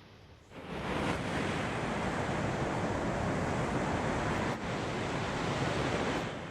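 Shinkansen bullet train passing through the station at speed without stopping: a loud rush of air and wheel noise that comes on suddenly about half a second in, holds for about six seconds and drops away near the end.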